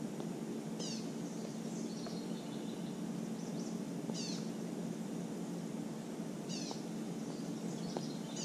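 A bird singing a short, high chirping phrase over and over, about every two and a half seconds, over a steady low background hum.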